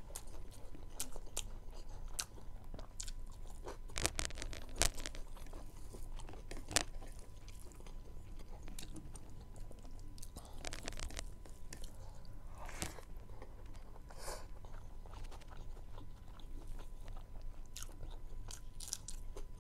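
Close-up eating sounds: a person chewing and crunching mouthfuls of rice and meat, with scattered sharp wet clicks and smacks.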